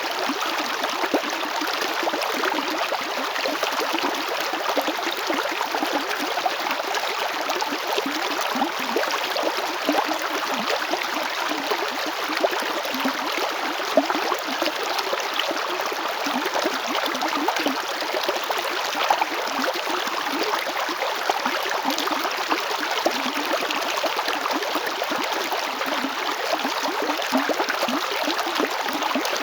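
River water flowing and gurgling over stones in a steady, continuous rush, with small splashes flickering through it.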